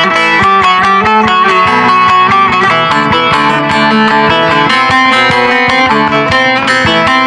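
Bağlama (Turkish long-necked saz) playing a melody of quick plectrum-plucked notes, with ringing strings under the tune.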